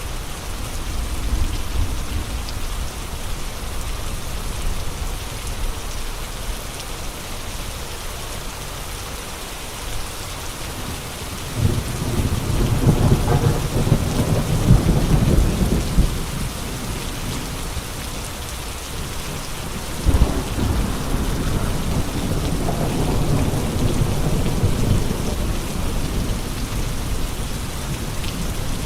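Steady heavy rain with gusting wind, the wind swelling into a louder, deep rumbling gust about twelve seconds in and again about twenty seconds in.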